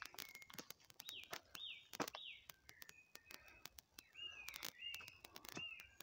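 Songbird singing faintly in the trees: short clear whistled phrases, first three quick falling notes, then steadier and rise-and-fall whistles. Scattered faint clicks and taps run through it.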